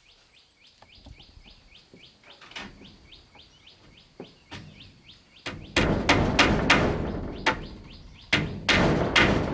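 A bird calls in a rapid, even series of high chirps, about four a second. From a little over halfway, loud wooden knocks take over, about three a second, with a short pause near the end: blows of a tool on wood.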